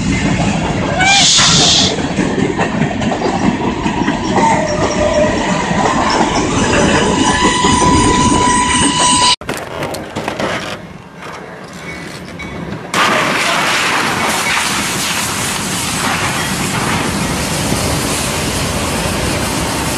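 Train noise: a train running on the track with a short hiss about a second in and a steady high squeal for a couple of seconds, then a sudden cut to a quieter stretch, followed by a loud, even rushing noise.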